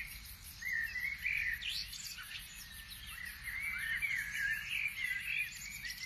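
Several birds chirping and singing over one another in short rising and falling phrases, over a faint low background rumble.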